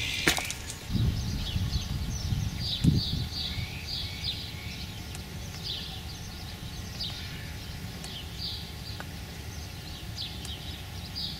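Small birds chirping in short, repeated high notes throughout. A low rumble with a thump runs under them for the first few seconds.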